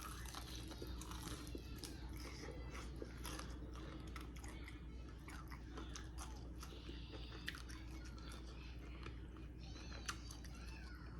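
Close-miked chewing and biting into crispy fried chicken: a run of small crunches and mouth clicks over a steady low hum.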